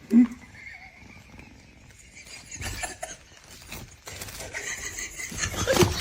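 A short animal call about a fifth of a second in, followed by scattered knocks and clatter that grow louder near the end.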